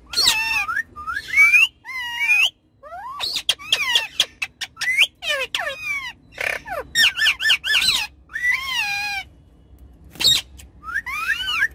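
Ringneck parrots calling in a rapid run of short, shrill squawks and chirps that glide up and down in pitch, with two brief pauses.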